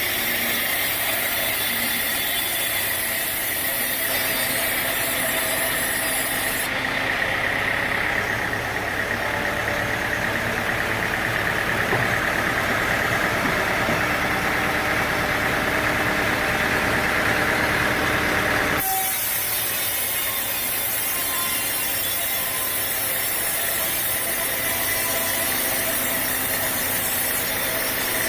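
Sawmill machinery running, a steady mechanical noise. About seven seconds in the sound changes abruptly, losing its highest hiss and gaining a stronger mid-pitched band, then switches back just as suddenly about nineteen seconds in.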